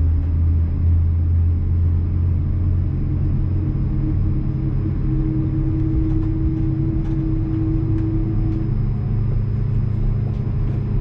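Steady low drone inside the cabin of an Airbus A330-200 before departure, with a higher steady hum that joins in about three seconds in and stops near nine seconds, and a few faint ticks.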